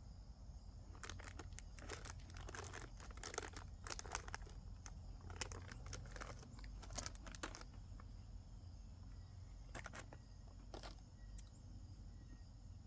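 Plastic candy bag crinkling as it is handled, in quick clusters through the first seven seconds or so, then a few more crinkles near the end.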